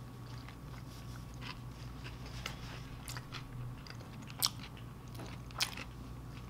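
Close-up chewing of a soft, saucy sloppy joe sandwich: wet mouth sounds with scattered small clicks, and two louder smacks in the second half.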